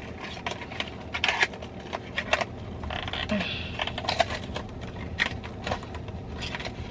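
Handling noise: a string of light, irregular clicks and rustles over a faint steady hum.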